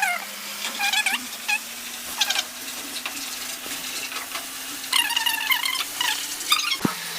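Onion-tomato masala sizzling in a pan while a spoon stirs and scrapes it, giving short squeaky scrapes in two clusters, near the start and about five seconds in. Under it runs a low steady hum that slowly rises in pitch and breaks off with a click near the end.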